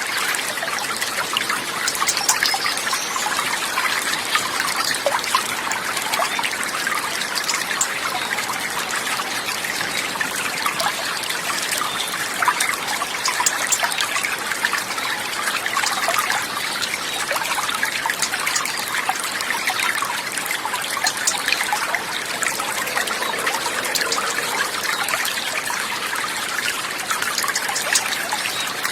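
Steady trickling water, an even rushing hiss dotted with many small splashing ticks, unchanging throughout.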